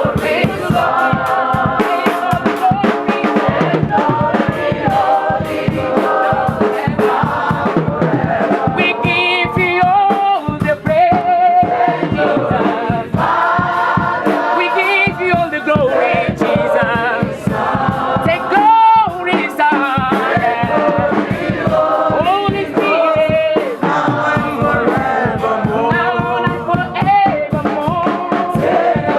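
A choir singing together over a steady percussion beat, in a gospel style.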